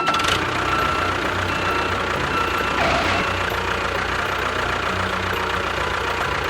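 Engine running steadily, starting abruptly after a cut and holding an even, dense note with a faint thin whine that comes and goes.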